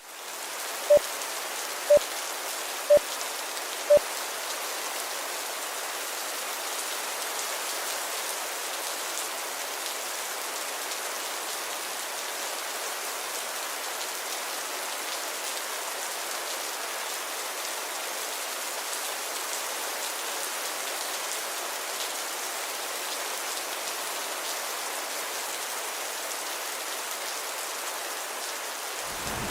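Steady rain falling, an even hiss. Over the first four seconds a run of short single-pitched beeps sounds, one each second.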